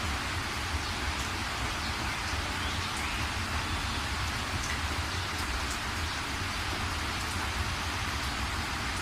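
Steady rain falling, a dense even patter with scattered drop ticks over a low rumble.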